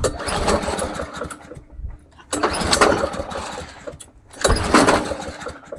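Walk-behind lawn mower's 140cc PowerMore engine being pull-started three times, cranking in bursts of about a second and a half, as a restart is tried while the engine is warm. This mower is known to refuse to restart when hot.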